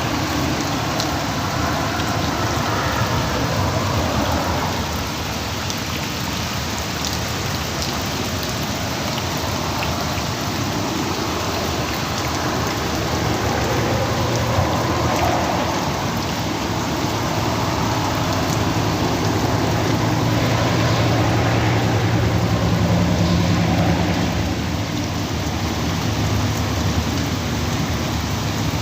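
Heavy rain pouring steadily onto surfaces, a dense even hiss. A low rumble swells in under it around the middle and fades out near the end.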